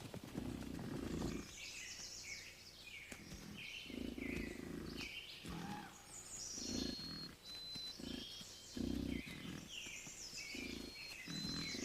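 Wood bison grunting repeatedly, low rough grunts every second or two, over birds chirping and twittering.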